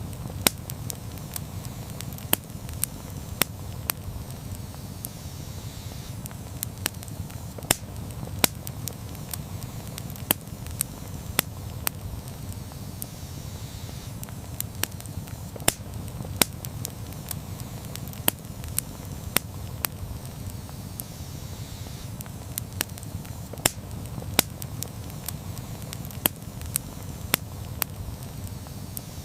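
Campfire burning with a steady low rumble and irregular sharp crackles and pops, several a second.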